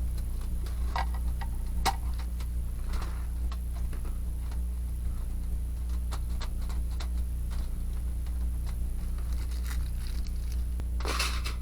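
Wood fire crackling in a small fire pit: scattered sharp pops and ticks, with a denser burst of crackling near the end, over a steady low hum.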